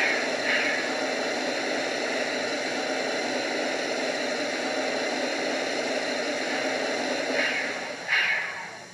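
Steam locomotive sound of a Southern Pacific AC-12 cab forward, from a sound-equipped model: rhythmic exhaust chuffs about twice a second that fade out just after the start and pick up again near the end, with a steady hiss in between.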